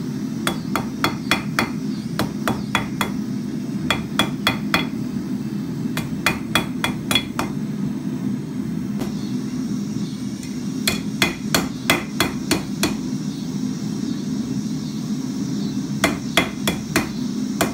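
Hand hammer striking a red-hot 3/16-inch steel rod on a steel anvil, hammering it square. The blows come in quick runs of about five a second, with pauses between runs, over a steady low hum.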